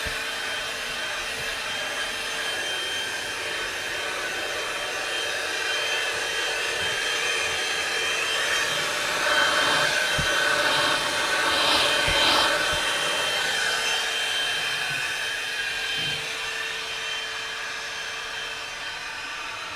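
Einhell PXC TE-VC 18 Li cordless hand-held vacuum cleaner running steadily, its motor whine over rushing air. It grows louder and rougher for a few seconds in the middle.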